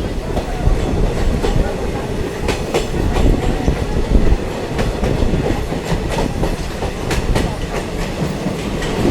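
Diesel multiple unit train running along the track: a steady low rumble with irregular clicks and knocks from the wheels over the rail joints.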